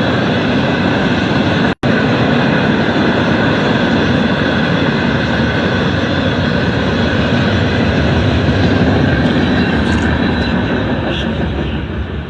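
Norfolk Southern freight train rolling past, a loud, steady rumble of wheels on rail. The sound cuts out for an instant about two seconds in and eases off slightly near the end.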